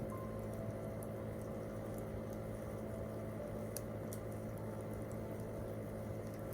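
Wood campfire crackling, with scattered sharp little pops over a steady low hum.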